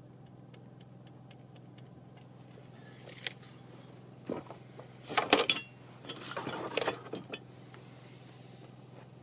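Short clinks and rattles of hard objects being handled, bunched between about three and seven and a half seconds in, over a steady low hum.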